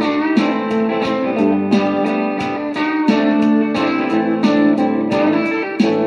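Guitar music: a run of plucked notes that ring on, with short sliding notes low down.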